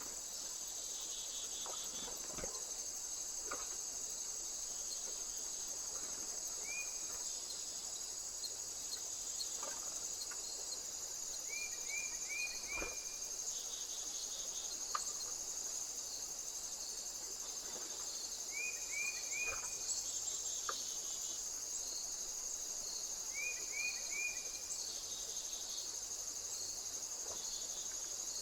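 Crickets or similar insects chirping continuously at a high pitch, with a bird calling a few times in quick runs of three or four short notes.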